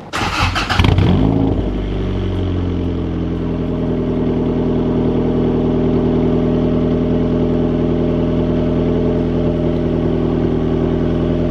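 Turbocharged Honda Civic four-cylinder engine starting about a second in, then idling steadily through its newly fitted 2.5-inch exhaust on its first startup.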